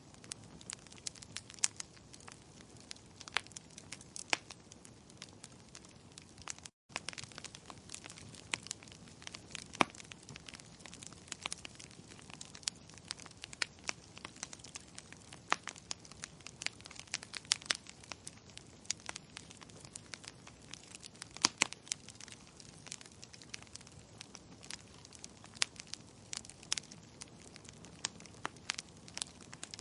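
Wood fire crackling: irregular sharp pops and snaps over a soft, steady hiss. It cuts out completely for an instant about seven seconds in.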